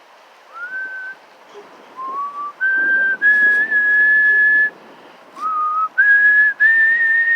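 A person whistling a slow tune: about seven clear notes, several sliding up into pitch, with one long held note in the middle.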